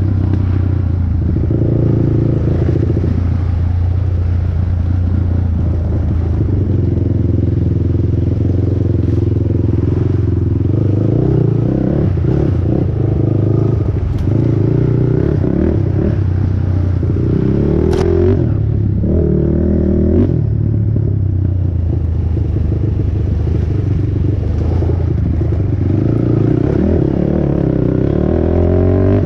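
Honda TRX450R quad's single-cylinder four-stroke engine running hard under race load, its pitch rising and falling as the throttle opens and closes, with a sharp knock about two-thirds of the way through.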